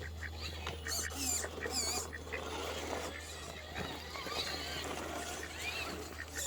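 Small birds chirping in short, wavy calls, over the faint whirring and gear noise of a radio-controlled scale rock crawler creeping over rocks.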